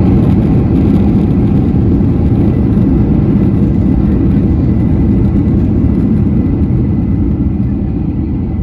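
Loud, steady rumble of a Boeing 737's engines and wheels inside the cabin during the landing rollout, slowly fading as the aircraft slows on the runway.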